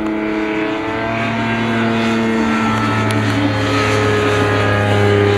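Kitfox light airplane's engine and propeller droning steadily in flight, heard from inside the cabin, its pitch drifting slightly up and down. A deeper hum joins about a second in.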